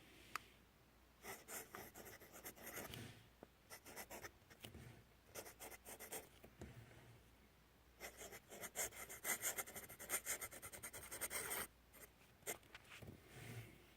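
Writing on paper: quick scratchy strokes in several bursts, the longest and loudest near the end.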